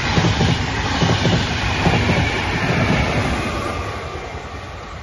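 Regional passenger train of coaches with an electric locomotive passing at speed, its wheels clattering over the rails in an even rhythm. The sound fades steadily from about three seconds in as the train moves away.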